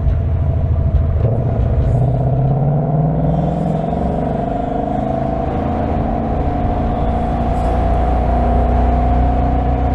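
2025 Ford Mustang GT's 5.0-litre V8 pulling under acceleration, its pitch rising over the first few seconds, then holding a steady drone as the car cruises.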